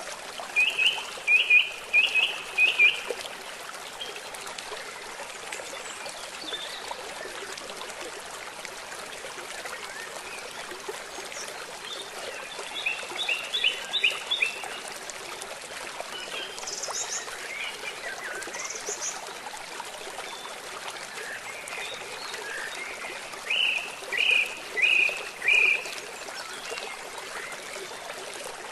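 Steady running water, a stream or rain, with loud chirping calls over it: three bursts of four or five short repeated notes, one at the start, one around the middle and one near the end, and a couple of brief higher calls in between.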